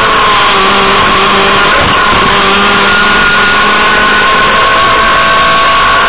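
Renault Clio Williams rally car's 2.0-litre four-cylinder engine revving hard under racing load, heard loud from inside the cabin, its pitch dipping briefly about half a second in and then holding high.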